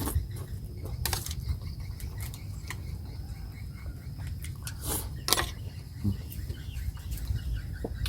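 Close-up eating sounds: chewing a mouthful of boiled chicken rice, with a few sharp clicks and smacks scattered through it.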